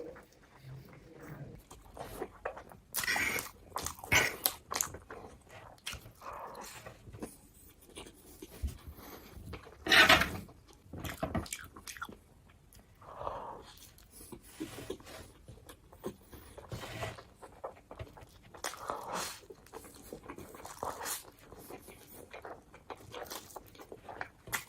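Close-miked chewing and eating mouth noises from a person eating noodles, in irregular bursts with a few louder smacks about three, four and ten seconds in.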